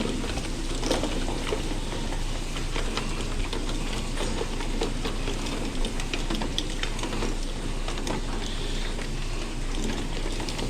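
Working ramen kitchen line: a steady rush of pots on the boil under a constant low hum, with scattered light clinks and taps of utensils and dishes.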